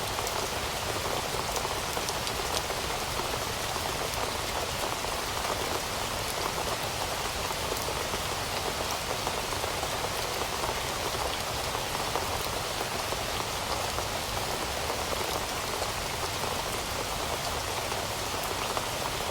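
Steady rain falling, with dense patter of drops on surfaces.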